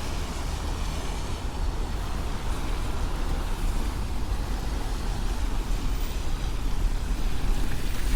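Steady city street traffic: vehicles running on a wet road, with a continuous low rumble.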